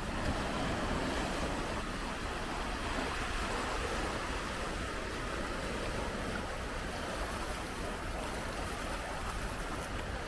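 Big sea waves breaking on the shore in a continuous, steady wash of surf.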